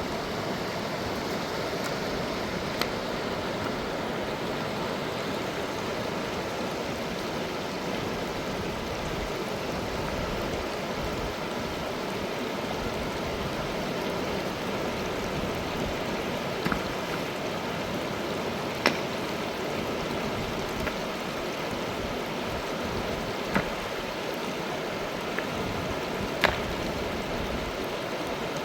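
Mountain river rushing steadily, with a few short sharp clicks or knocks now and then.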